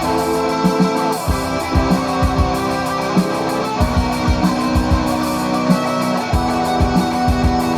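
Live instrumental rock music: guitar playing held notes over a steady drum beat.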